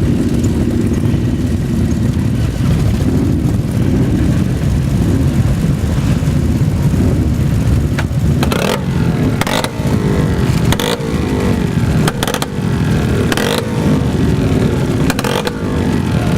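Motorcycle engines running close by, with some revving, and a few sharp crackles in the second half.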